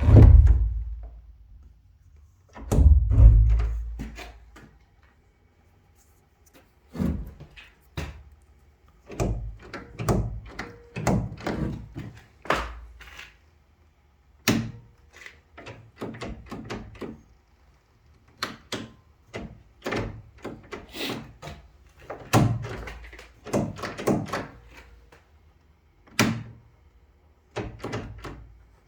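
A door and its handle being worked on by hand: a long run of irregular clicks, knocks and rattles, with heavy low thumps at the start and about three seconds in.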